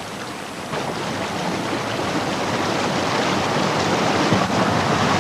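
Rushing water, a steady hiss that swells louder about a second in.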